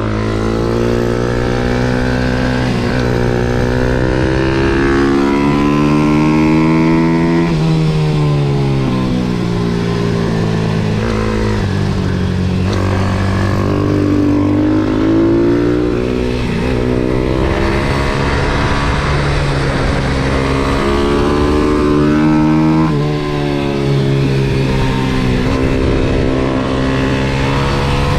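MRF 140 SM pit bike's single-cylinder four-stroke engine revving hard around a track, the revs climbing through the gears and falling off again for corners, several times over.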